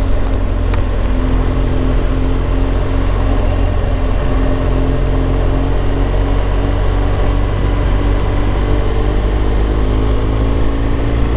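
BMW R1200 GS flat-twin boxer engine running steadily under way, with wind and road noise. The engine note climbs a little in the later part.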